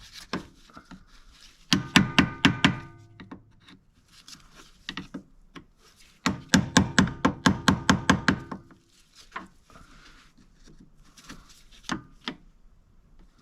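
Two bursts of rapid metallic strikes, about seven a second with a ringing tone, each lasting one to two seconds, followed by a few scattered single knocks: tool work on the metal parts of a track loader.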